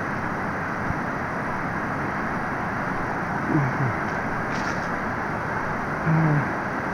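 Waterfall rushing steadily, an even roar of falling water, with brief snatches of a voice about halfway through and near the end.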